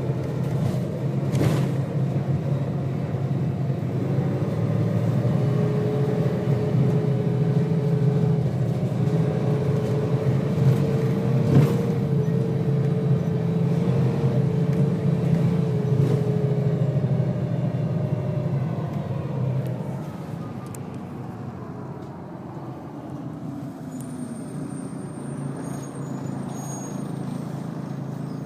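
Volvo B6BLE bus engine heard from on board, running under load with a steady drone and a whining tone over it for several seconds. About two-thirds of the way in, it eases off and grows quieter. Two sharp clicks sound early on and midway.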